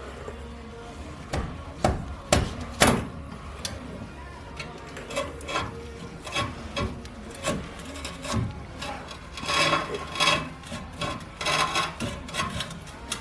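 Hand tools working on metal, with a socket wrench on an extension turning bolts: scattered metal clinks and knocks, and short runs of rapid ratchet clicking about ten seconds in and again near the end.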